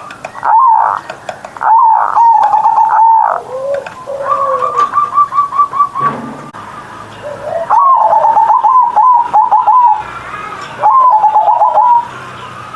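Zebra dove (perkutut) cooing loudly in repeated song phrases: a few arched coo notes, then three phrases that each start with a lower note and run into a rapid stuttering series of short coos.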